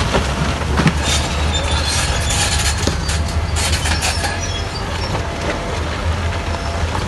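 Crawler bulldozer's diesel engine running steadily with a deep rumble, over clanking and scraping from its steel tracks and the rock it pushes, busiest from about one to four seconds in.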